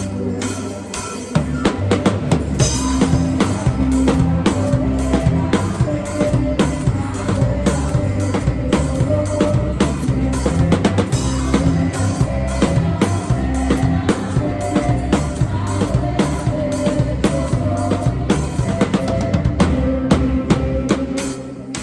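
Drum kit played in a steady beat, kick, snare and cymbals, over worship-song music with sustained bass and keyboard tones. The sound is the room picked up on a phone.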